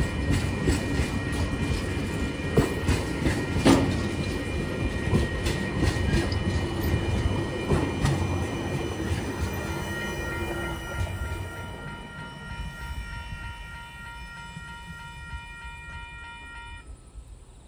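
Empty container flat wagons of a freight train rolling past, wheels clacking over rail joints with a few sharp bangs, fading away as the last wagon goes by. A steady high ringing runs underneath and cuts off suddenly near the end.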